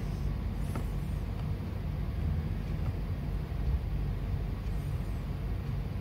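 Steady low background rumble with no speech, and a faint click a little under a second in.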